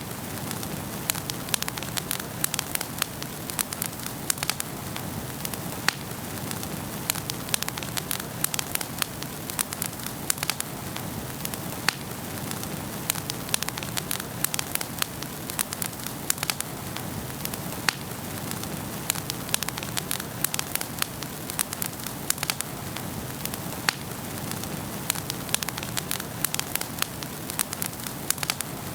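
Wood fire burning in a fireplace: a steady low rush of flame with frequent sharp crackles and pops, several a second.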